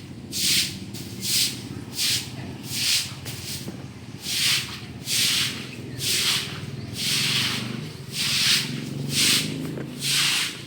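Water sloshing back and forth in a container, shaken by an earthquake, making a regular swish about every three-quarters of a second over a steady low hum.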